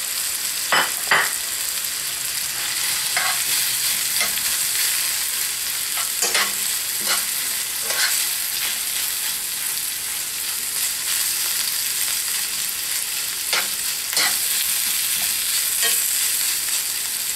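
Crumbled sausage and diced apple sizzling steadily in a cast-iron skillet, with a spoon scraping and clinking against the pan now and then as they are stirred.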